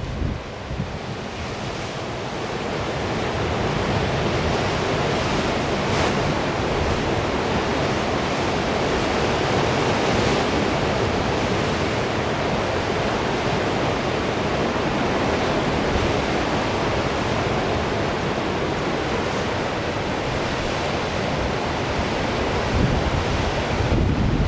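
Sea surf breaking and washing in a strong wind, a steady rushing noise, with wind buffeting the microphone in low rumbling gusts at the start and again near the end.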